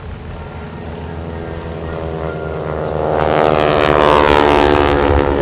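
Boeing Stearman biplanes' radial engines and propellers flying past, growing steadily louder to a peak about four seconds in, with the engine note dropping in pitch as they pass.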